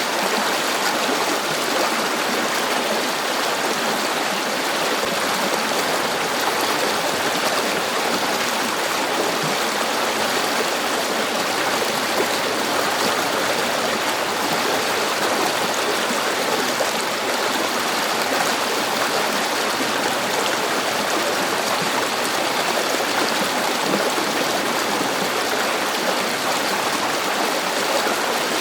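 River water flowing and babbling steadily, an even rushing with no breaks.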